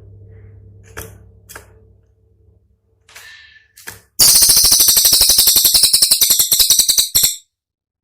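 Cililin songbird's song: a few faint short chips over a low hum, then about four seconds in a loud, rapid, high-pitched rattle of sharp notes, roughly a dozen a second, lasting about three seconds and stopping abruptly. This is the dense, piercing "tembakan" burst prized as tutoring material for songbirds.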